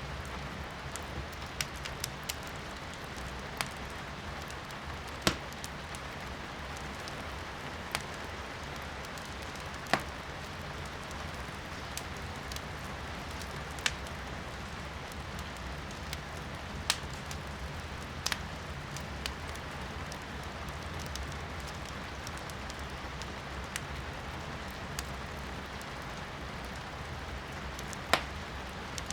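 Firewood burning in a fireplace, crackling with scattered sharp pops, a few of them much louder, over a steady hiss of rain heard from indoors.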